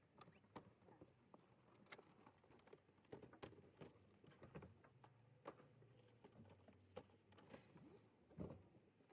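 Faint, scattered light clicks, taps and rustles of household items being handled and packed during a move, with a somewhat louder knock near the end.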